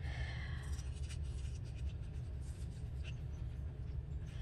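Paper scraps being handled: a brief scratchy rustle near the start, then faint scattered rubbing and light ticks, over a steady low hum.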